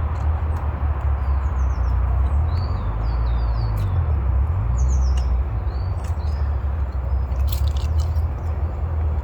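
Wind buffeting the microphone as a steady low rumble, with a small bird chirping repeatedly in the background in short quick notes. A few sharp clicks come near the end.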